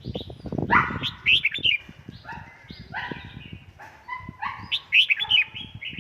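Red-whiskered bulbul singing a series of short, loud whistled phrases, the loudest about a second in and again about five seconds in, over low knocks and rumble.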